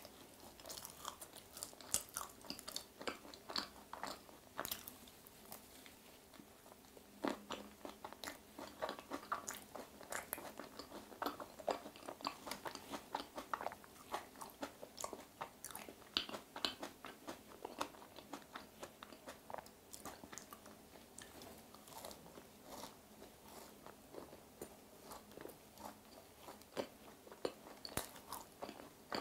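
Close-miked chewing of a green grape yogurt macaron: soft crunches of the shell and many small, irregular wet mouth clicks.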